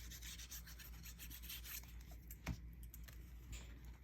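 Faint rustling and rubbing of scrapbook paper being handled and pressed flat, with one sharper tap about two and a half seconds in.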